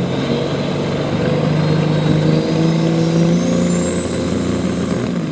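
Limited pro stock semi truck's diesel engine running hard under load while pulling the sled, with a high whine climbing steadily in pitch.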